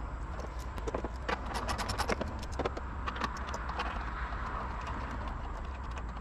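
A run of irregular sharp clicks and light clinks, bunched in the first half, over a steady low rumble.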